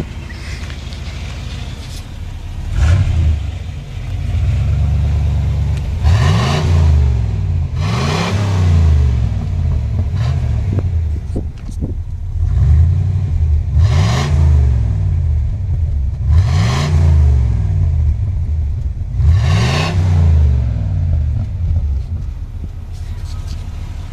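1988 Chevrolet Caprice Classic's 5.0 L (305) small-block V8 through its stock exhaust, idling and then revved in about six quick blips, each rising and falling in pitch, before settling back to idle near the end.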